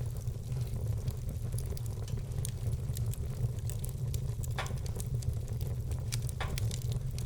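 Wood fire burning in a fireplace: many small, sharp crackles over a steady low rumble, with two louder pops in the second half.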